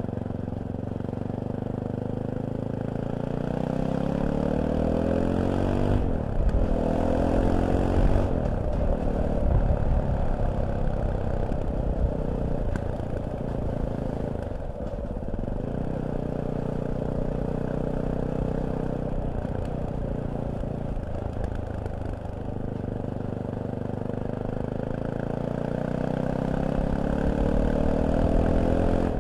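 Fantic Caballero 500's single-cylinder engine under way, pulling up through the gears with its pitch climbing over the first several seconds. It then holds a steady cruise with a few brief dips off the throttle, and pulls up again near the end.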